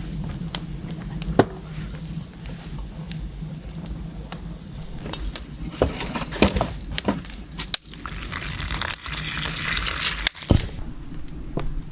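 Food-preparation handling sounds: scattered clicks and knocks of utensils and dishes, with a short hissing stretch about two-thirds of the way in.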